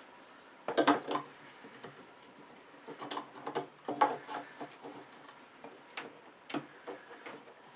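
Light plastic knocks and clicks as a dust chute adapter is handled and pressed onto a thickness planer's outlet, in small clusters about a second in, around three to four seconds in, and again near six and a half seconds.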